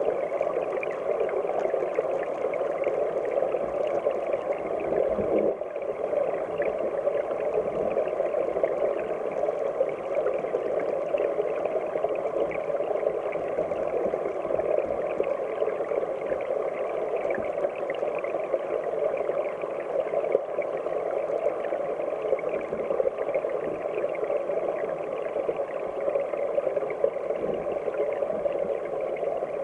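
Mountain headwater stream flowing and bubbling, heard underwater: a steady, muffled rush with little hiss, dipping briefly about five seconds in.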